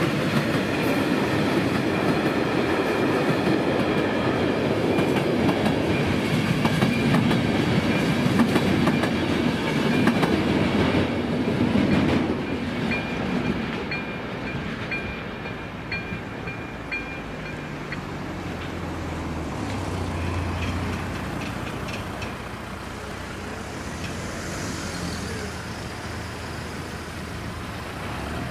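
A blue České dráhy electric locomotive hauls a train over the level crossing, its wheels clattering loudly over the rails. As the train clears, about twelve seconds in, the crossing's electronic warning bell can be heard dinging steadily until it stops a few seconds later. After that comes the quieter hum of road vehicles waiting and starting across.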